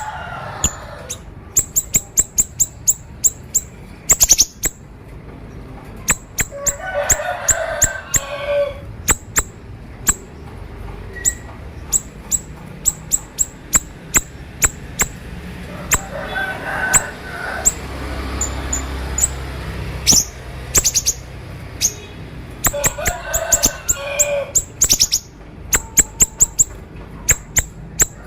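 Siri-siri bird singing in the rapid 'konslet' style: quick runs of sharp, high chips in clusters, broken by a few raspy, buzzy phrases.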